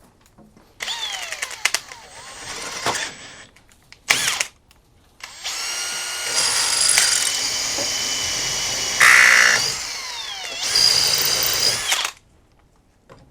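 Power drill with a 5/16-inch bit enlarging the bolt hole in an ignition coil's mounting ear, run in several bursts: short runs in the first few seconds, then a longer steady run from about five seconds in to near the end. Its whine drops in pitch each time the trigger is let off.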